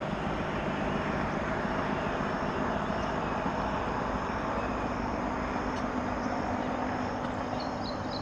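Helicopter flying in the sky, a steady engine and rotor drone with a low hum. A few short high chirps come near the end.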